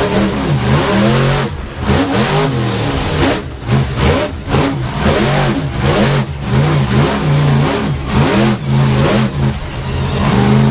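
Monster truck's supercharged V8 engine revving hard, its pitch climbing and dropping over and over in quick bursts.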